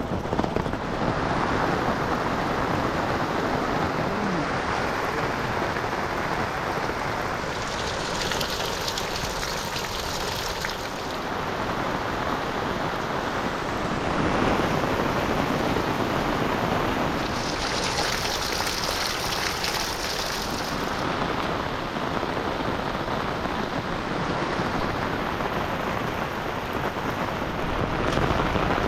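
Heavy rain falling steadily, a continuous hiss. Twice, for about three seconds each, a higher hiss swells over it.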